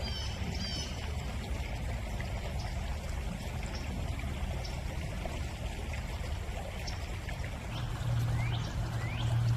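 Water trickling steadily in a small channel, with birds chirping: a few quick chirps at the start and a run of short rising whistles near the end. A low steady hum comes in near the end.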